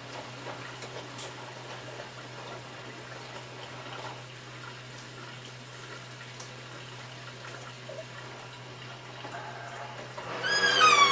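Hotpoint washing machine running its Anti Stain Turbo cycle, water flowing and filling steadily with a low hum. About ten seconds in, a loud wavering pitched tone starts.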